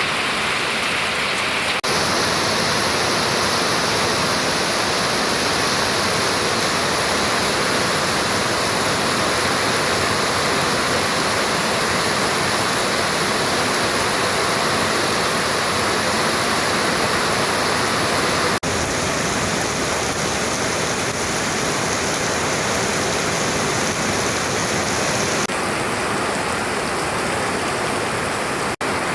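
Heavy rain falling in a steady, dense hiss. Its tone shifts abruptly about two seconds in, around two-thirds of the way through, and again near the end.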